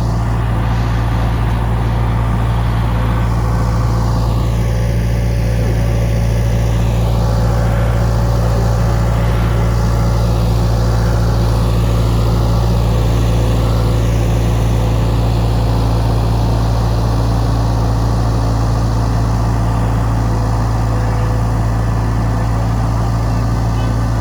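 Case skid steer's diesel engine running steadily, a continuous low drone that holds the same pitch and loudness throughout.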